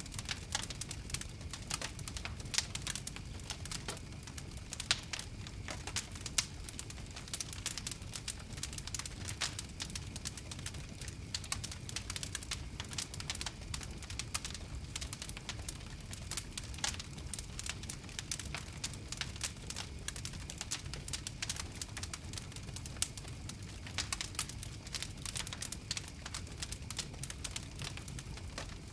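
Campfire crackling steadily: a dense patter of small pops and snaps over a low rumble of flame, with a few louder pops standing out.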